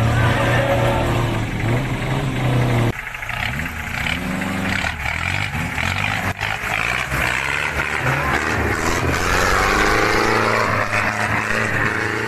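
Daihatsu Taft 4x4 engine running hard, labouring in deep mud. About three seconds in the sound cuts abruptly, after which the revs rise and fall again and again.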